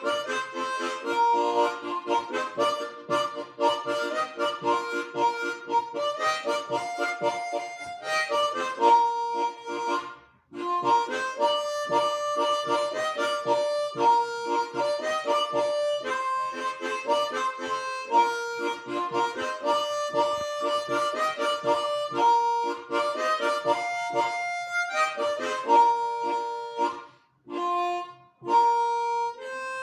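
Instrumental music: a lively melody of short, quick notes on a reedy wind instrument. It breaks off briefly about ten seconds in and again near the end.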